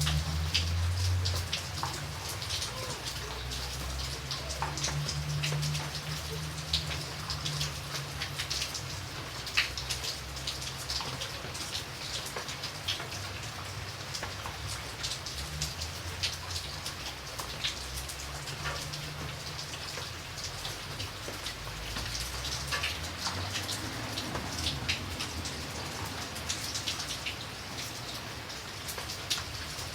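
Steady rain falling, with many individual drops striking a surface as sharp ticks over a continuous hiss, and a low rumble underneath.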